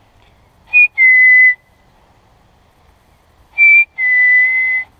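A whistle blown twice, each time as a two-note call: a short higher note, then a longer, steady lower one. The two calls come about three seconds apart, and each is loud.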